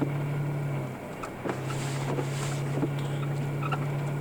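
Vehicle engine and road noise heard from inside the cabin while driving: a steady low drone that dips briefly about a second in and then resumes, with faint scattered clicks.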